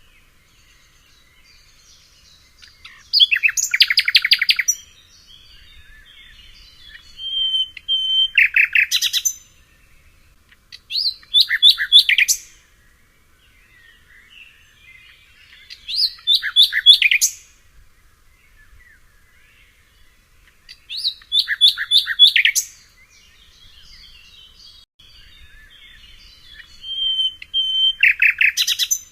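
Songbird singing a loud phrase of rapid notes about every four to five seconds, some phrases opening with a short held whistle. Fainter chirps from other birds fill the gaps.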